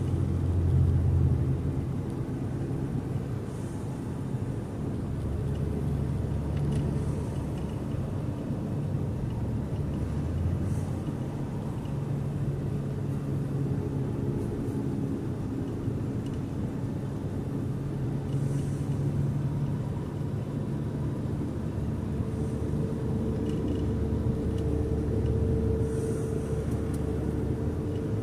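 A car driving: steady engine and road rumble whose engine tone rises and falls in pitch with speed.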